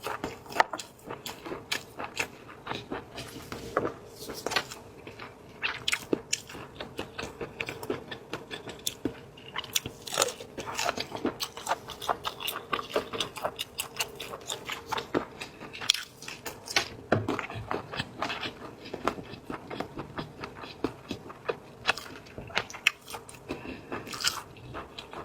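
Close-up eating of shellfish: shells cracking and food being chewed, a dense, irregular run of small crunches and clicks.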